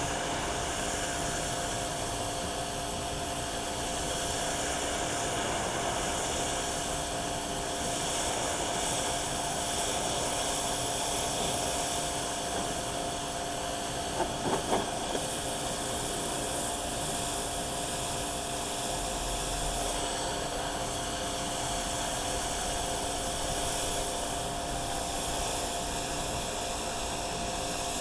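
Steady hissing machine noise with a constant hum under it, broken by a few short clicks about halfway through.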